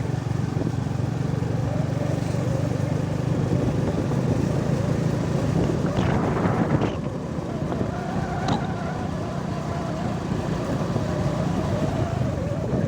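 Vehicle engine running steadily on the move along a road, with a louder rush of noise about six seconds in.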